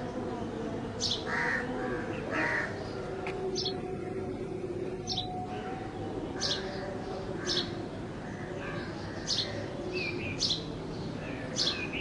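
Sparrows chirping: short, sharp cheeps repeated roughly once a second, with a brief lull in the middle, over a steady background hum.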